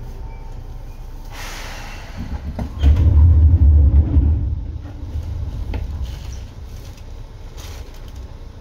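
Running sound of Seibu electric train set 2057F heard from on board: a steady low rumble with a brief hiss about a second and a half in. Then a loud, heavy low rumble lasts about two seconds and eases off.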